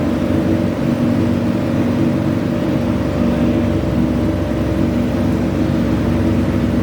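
Modified garden tractor engine running at a steady, high speed, its loud exhaust pulsing evenly without revving up or down.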